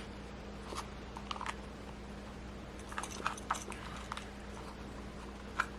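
Sunglasses being handled: scattered light clicks and taps, a cluster in the middle and a sharper one near the end, over a steady low hum.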